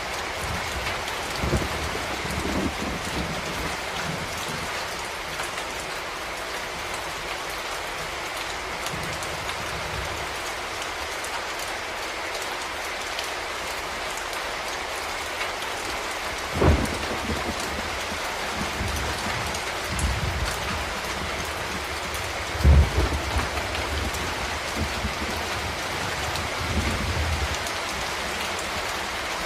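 Steady rain falling on a surface, with a few brief low thumps, the strongest about 17 and 23 seconds in.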